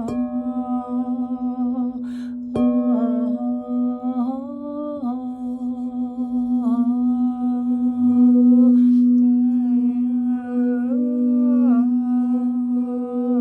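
A singing bowl tuned to B sounds a loud, steady tone while a person hums along, the humming voice shifting pitch a few times. A sharp tap about two and a half seconds in.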